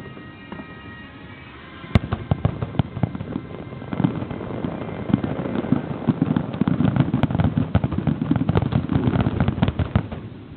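Fireworks bursting in a rapid barrage: a sharp bang about two seconds in, then bangs and crackles packing closer together until they stop suddenly near the end, like a finale. Music plays faintly underneath.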